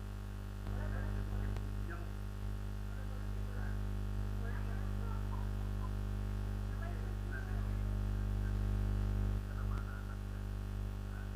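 Steady electrical mains hum on the audio line, a low buzz with a stack of evenly spaced overtones, with faint indistinct sounds above it.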